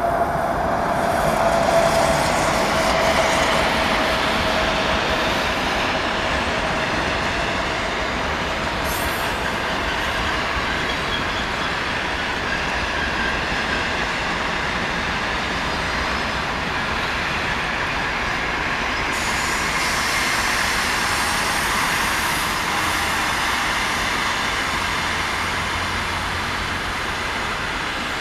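Passenger train drawn by a ChS4 electric locomotive running past at speed: a steady, loud rolling noise of coach wheels on the rails. A tone falls slightly in pitch over the first few seconds as the locomotive goes by.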